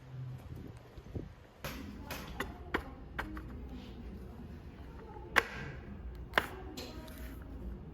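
Scattered sharp clicks and knocks over a low steady background rumble, the two loudest about five and a half and six and a half seconds in.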